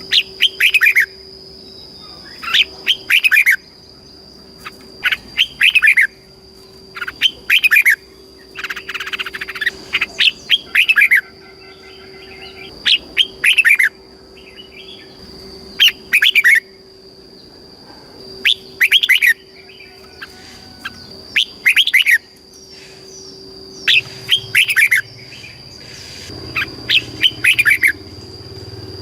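Red-whiskered bulbul singing short, quick phrases of a few notes, one every two to three seconds. A steady high whine and a faint low hum run underneath.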